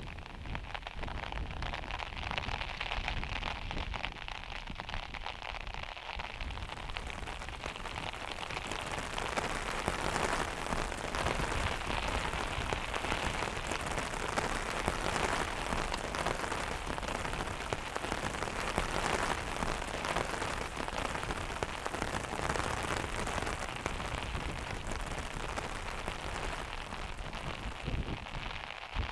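Heavy rain hitting a van's metal roof, a dense steady patter of many drops that fills out a little after several seconds.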